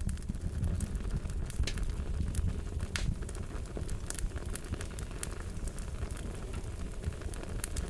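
Fire crackling: a steady low rumble with many scattered sharp pops, one louder pop about three seconds in.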